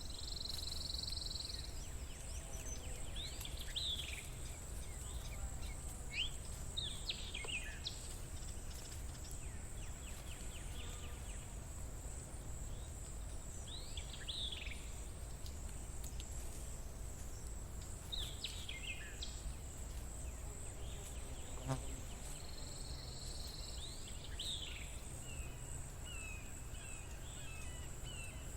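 Nature ambience: a steady high-pitched insect drone, with birds calling every few seconds in short downward-sweeping notes over a low steady rumble.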